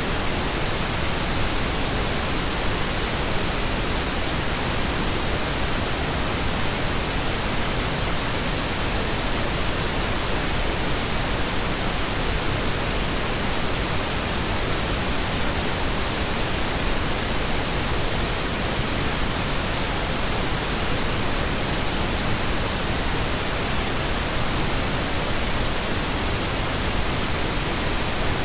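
Steady synthetic pink noise: an even, unchanging hiss spread across all pitches, with no breaks or changes.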